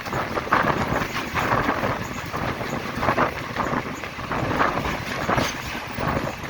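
Passenger train running along the track: a steady rumble with dense, irregular clatter from the wheels and wind noise.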